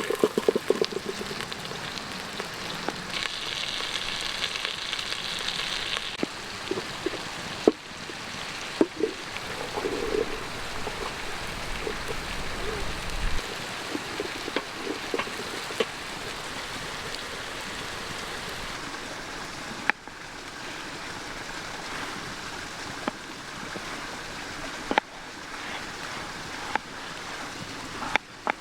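Steady rush of a small creek, with scattered sharp clicks and knocks over it.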